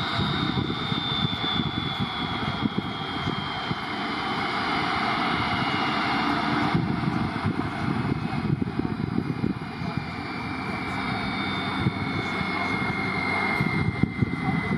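Airliner engines running, a steady rumble with a thin high whine that falls slowly in pitch.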